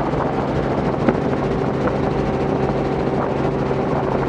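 Robinson R44 helicopter in cruise flight: the steady drone of its engine and rotors, with a brief click about a second in.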